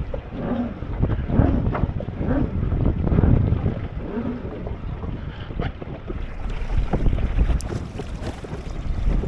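Wind buffeting the microphone over water sloshing and slapping against a boat, in uneven surges with occasional knocks.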